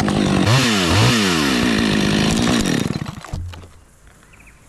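Chainsaw cutting through a dead gum trunk behind the scarf, its engine pitch swinging up and down twice as it works the cut, then shutting off about three seconds in as the section is cut free.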